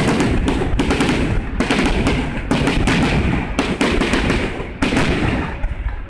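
Fireworks display: a dense, continuous run of bangs and crackles, one on top of another, with a deep rumble under them.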